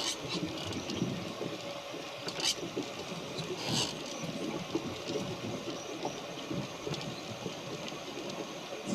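Water rushing and splashing along a small sailboat's hull as it moves, a steady wash with irregular crackle and a couple of brief hissing splashes.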